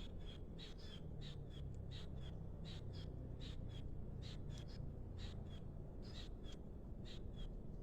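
A small bird chirping over and over, short high notes about two to three a second, over a steady low rumble.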